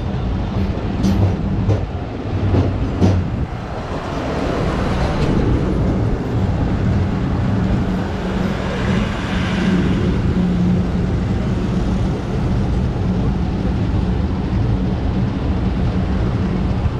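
Bangladesh Railway local passenger train running on the track, a steady rumble of wheels and carriages, with a few sharp clicks in the first three seconds.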